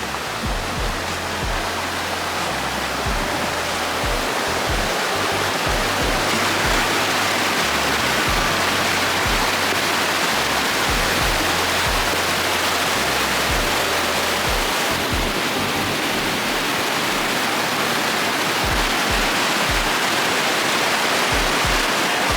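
Waterfall rushing steadily over background music that has a low bass line and a regular beat.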